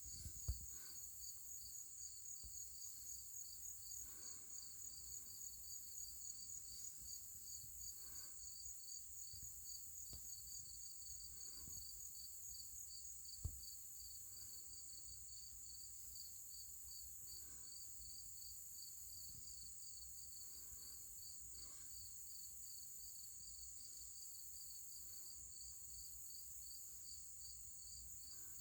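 Crickets chirping steadily in an even, rapid pulse over a continuous high hiss. Two brief sharp knocks, one right at the start and one about halfway through, are the loudest moments.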